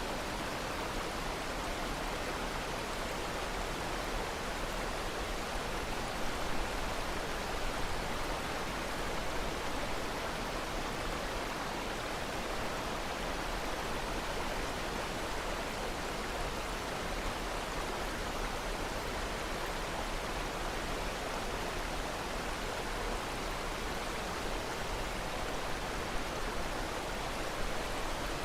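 A steady rushing noise of flowing water, even throughout, with a few small peaks.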